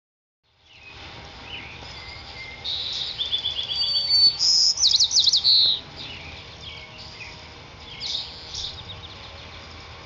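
Songbirds singing, loudest in a burst of rapid trills and whistled notes from about three to six seconds in, with a few fainter calls later over a steady low background noise.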